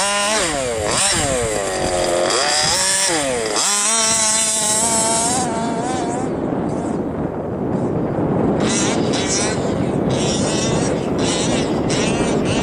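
Baja Bug's air-cooled VW engine revving hard under acceleration. Its pitch climbs, drops sharply about a second in and again near four seconds in, then climbs again. After about five seconds the engine tone gives way to a loud, steady rushing noise.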